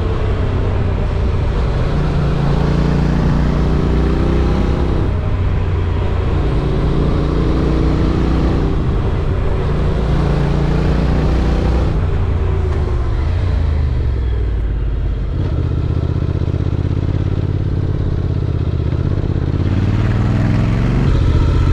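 Honda NC750X parallel-twin motorcycle engine under way, its note rising and falling several times as the bike speeds up and slows through the bends.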